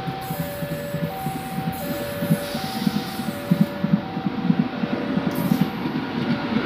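Commuter train approaching along the track, its low pulsing rumble growing louder until it draws level near the end. An electronic two-tone warning, high and low taking turns about every 0.7 seconds, sounds throughout, as from a railway level-crossing alarm.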